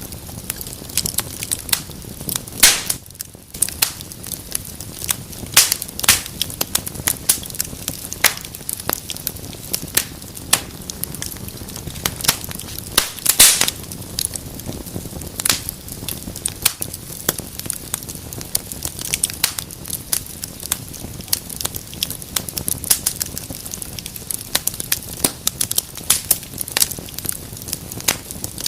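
Wood fire in a fireplace crackling, with many sharp pops and snaps over a low steady rumble of flames. The loudest pops come about three seconds in and again near the middle.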